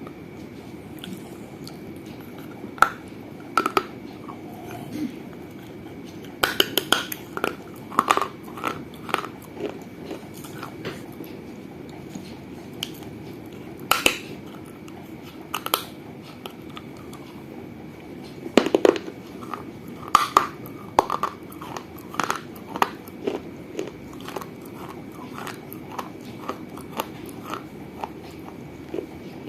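Baked clay from a mini clay piggy bank (gullak) being bitten and chewed close to the microphone: irregular sharp crunches and cracks that come in clusters.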